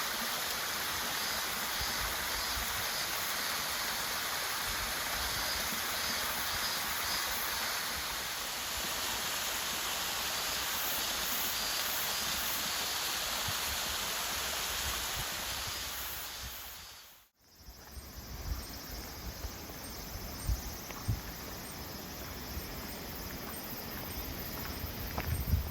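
Steady rushing water that fades out about two-thirds of the way through. After it comes quieter outdoor ambience with low thumps of wind on the microphone.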